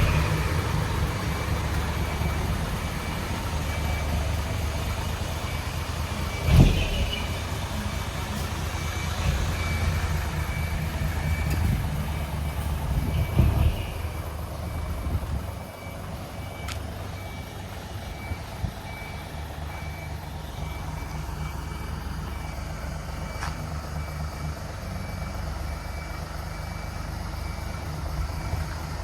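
Isuzu Forward truck's diesel engine running with a split exhaust manifold and single muffler, a steady low note with two short louder blips about six and a half and thirteen and a half seconds in. A high beep repeats alongside it.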